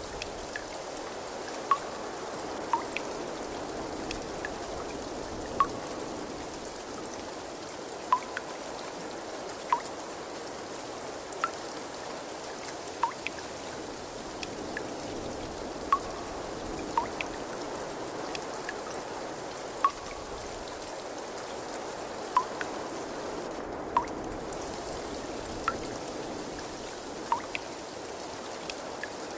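Steady trickle of running water, with single water drops plinking clearly every one to two seconds.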